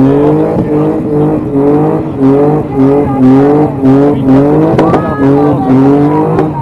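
A car engine revved over and over in quick rising pulses, a little under two a second, over a steady low running note.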